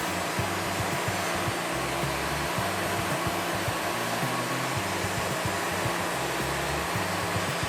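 Steady rushing machine noise at an even level throughout, over background music with a low bass line that steps between notes.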